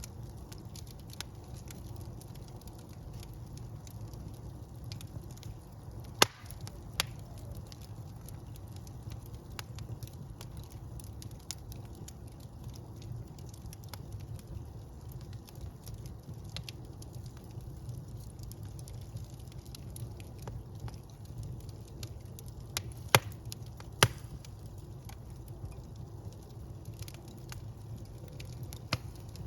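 Wood fire burning in a fireplace: a steady low rumble of flames with scattered crackles and a few sharp, loud pops, the strongest about six, seven, twenty-three and twenty-four seconds in.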